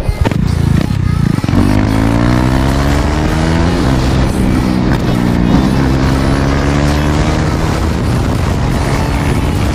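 Single-cylinder motorcycle engine pulling hard under acceleration, its note climbing steadily with gear changes about four seconds in and again about a second and a half later.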